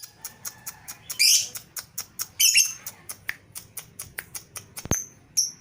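A cage bird calling: a quick run of sharp ticking notes, about four or five a second, broken by two louder, harsh squawks in the first three seconds.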